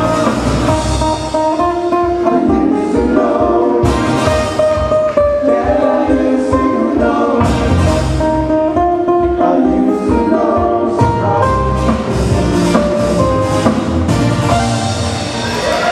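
Live band playing a song with guitar and sung vocals over a steady beat.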